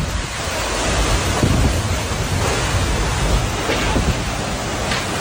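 Tornado winds and heavy rain sweeping past a house: a loud, unbroken rush of noise with low rumbling.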